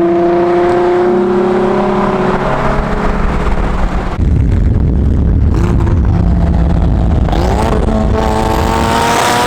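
High-performance car engine at wide-open throttle, its pitch climbing steadily as it accelerates. About four seconds in, the sound changes abruptly to a deep rumble, and near the end the revs rise again in quick steps.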